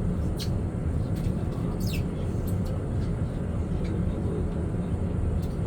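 Steady low outdoor rumble, the kind of ambience heard on a ship's deck, with a few short high chirps over it; one near two seconds in falls in pitch.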